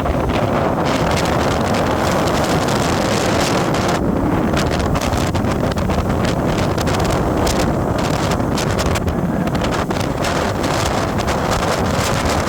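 Steady wind rushing and buffeting over the microphone of a moving vehicle, with a low rumble of travel underneath.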